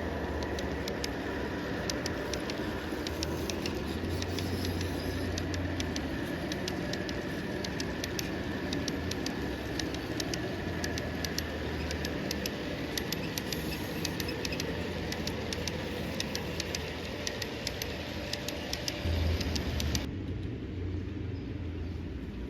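Model train running along its track: a steady rumble with rapid, uneven clicking and rattling from the wheels on the rails.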